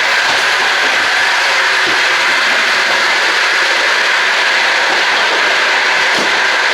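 Loud, steady running noise of a long-distance passenger train in motion, heard from inside the carriage: an even rushing noise with no distinct wheel clicks.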